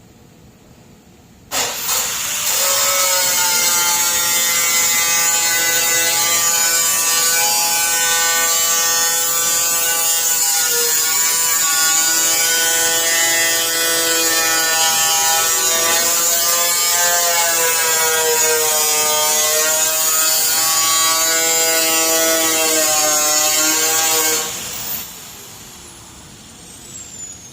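Power cutoff tool with an abrasive wheel cutting through a steel hood panel: a loud, high whine that starts about a second and a half in, its pitch wavering as the wheel bogs and recovers in the cut. Near the end it stops cutting and winds down.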